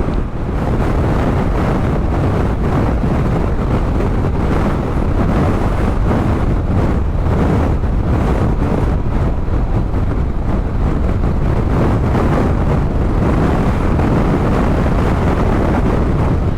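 Strong gusting wind buffeting the camera microphone on a moving bicycle, a loud, steady rumble.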